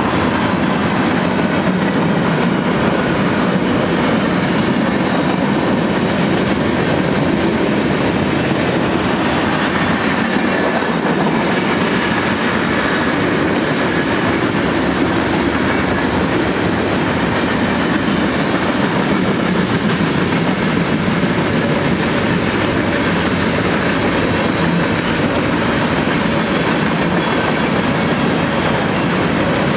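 Freight cars of a mixed manifest train rolling past on steel rails: a steady rumble and clatter of wheels on track.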